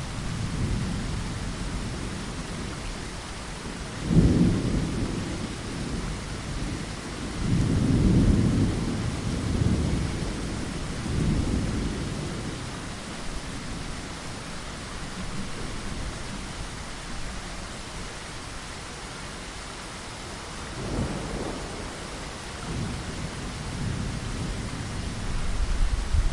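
Steady rain falling against a window, with rolling thunder. Low rumbles swell and fade: a sharp one about four seconds in, several more over the next eight seconds, and others near twenty-one seconds and at the end.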